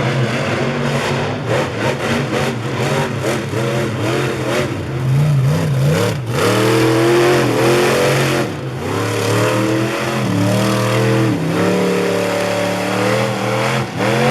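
Monster truck engine revving hard, its pitch climbing, holding high for a second or two and dropping back several times over.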